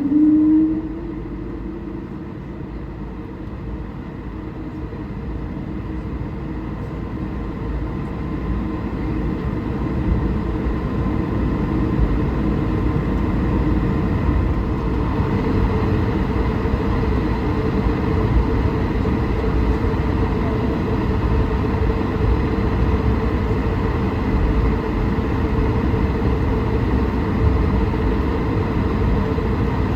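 Cabin noise of an Airbus A220-300 on the ground: a steady hum from its geared turbofan engines over a low, jittery rumble from the wheels. It grows louder over the first ten seconds or so, then holds steady. A low held tone stops within the first second.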